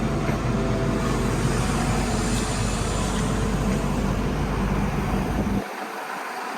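Heavy construction machine's engine running steadily with a low hum. The deep rumble drops out near the end while the higher noise continues.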